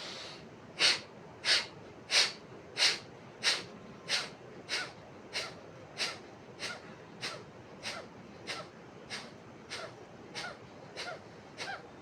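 Kapalabhati (skull-shining) yogic breathing: one drawn-in breath, then a steady train of short, forceful exhalations pushed from the abdomen, about three every two seconds. The exhalations are loudest at first and grow gradually softer.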